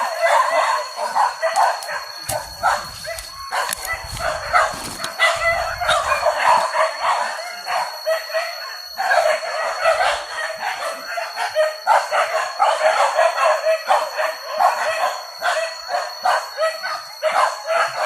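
A pack of hunting dogs barking and yelping, many overlapping calls at once, as they chase a wild boar.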